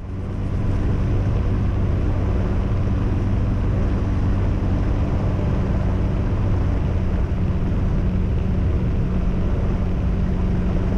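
Light aircraft's piston engine running steadily with a constant hum, fading in over the first half second.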